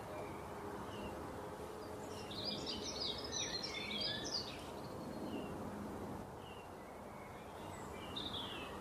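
Birds chirping over a steady background hiss, with a quick flurry of many short chirps about two to four and a half seconds in and single chirps now and then.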